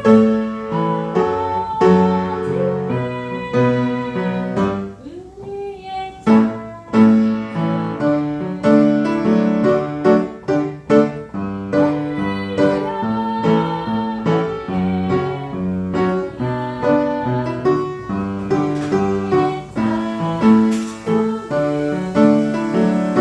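Piano playing a hymn, a continuous run of struck chords and melody notes, with a softer passage about five seconds in.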